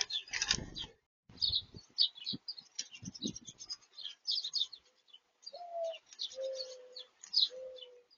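Small birds chirping rapidly at close range at a feeder, with a few knocks and scuffs in the first half. Near the end come three low, steady coo-like notes.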